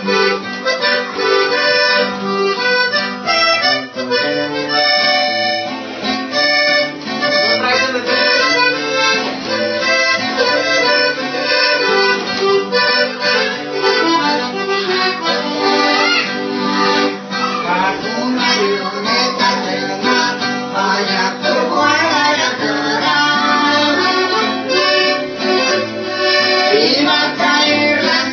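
Accordion music with a plucked guitar accompaniment, playing a lively rhythmic tune.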